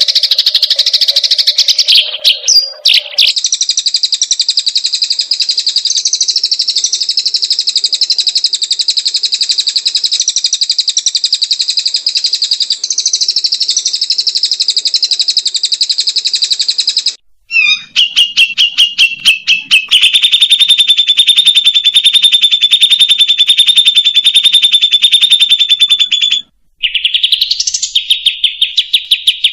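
Songbird giving long, very rapid buzzing trills: one trill held for over ten seconds at a high pitch, then after a short break a slower stutter and further trills at a somewhat lower pitch, the last one rising into it.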